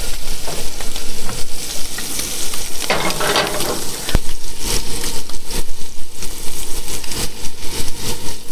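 Camp frying pan sizzling on the heat, with small crackles and knocks throughout and a louder burst about three seconds in.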